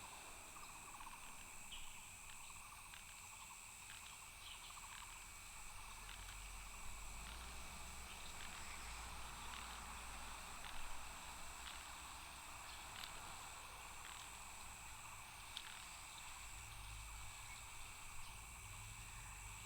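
A chorus of night insects trilling steadily in high, unbroken tones, with scattered faint ticks over a low rumble.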